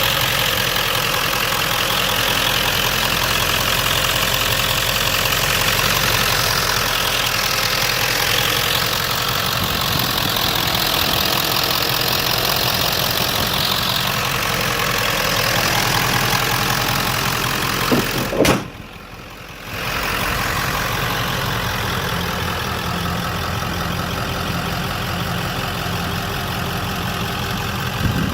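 1997 Ford F-250's 7.3 L Powerstroke turbo-diesel V8 idling steadily. About eighteen seconds in there is a sharp knock, and the sound goes muffled and quieter for a second or two before the idle returns.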